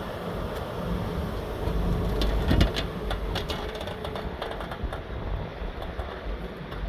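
Scania fire truck's diesel engine running steadily. A cluster of light clicks comes from about two to four seconds in.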